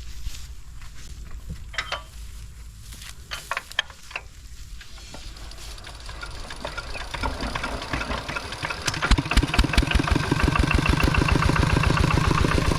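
A vehicle engine running, with a few light clicks in the first seconds; it grows louder from about seven seconds in and settles into a steady, even chug from about nine seconds.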